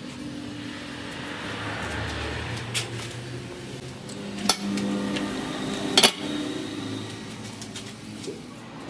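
Metal parts and tools clanking in shop work on an axle: a few sharp metallic knocks, the loudest about four and a half and six seconds in, over a steady low hum.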